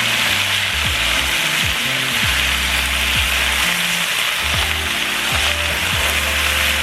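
Chopped onions and bell peppers sizzling steadily in hot oil in a large pot, over background music with a low bass line.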